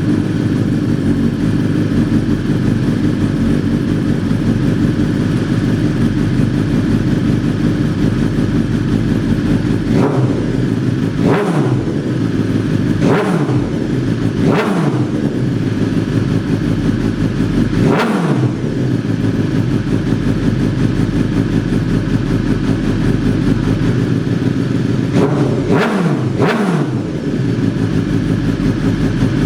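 BMW S1000RR inline-four engine breathing through a full Akrapovic exhaust system, idling steadily. It is given about seven short throttle blips that rise sharply and drop back to idle: five spread through the middle and a quick pair near the end.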